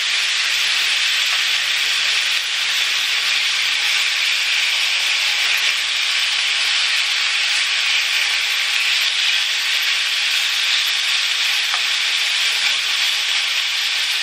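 Seasoned diced chicken breast sizzling steadily in a hot cast-iron skillet, with tongs stirring through the pieces.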